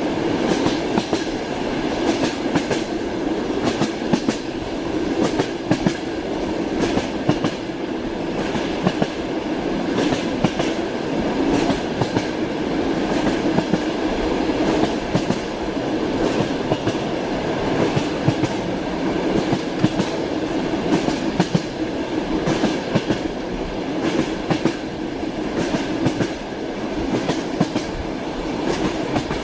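Moving train: a steady rumble from the railway carriage with frequent clacks of the wheels over the rail joints.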